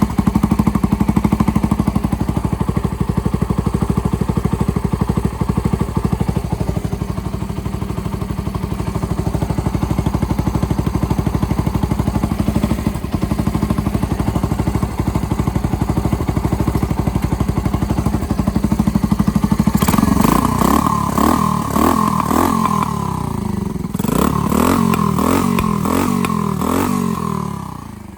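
Suzuki Grasstracker Big Boy's single-cylinder four-stroke engine idling steadily, then, about twenty seconds in, revved in a series of throttle blips that rise and fall in pitch.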